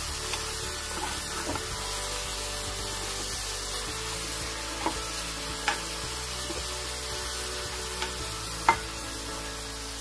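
Marinated chicken strips sizzling in an oiled skillet as a wooden spatula stirs and tosses them while the liquid cooks off. A few sharp knocks of the spatula against the pan, the loudest near the end.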